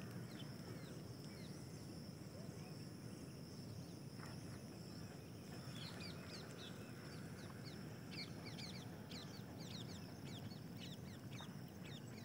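Faint open-field ambience with birds chirping. There are scattered quick, high, downward-sliding chirps, growing into a busy flurry from about six seconds in.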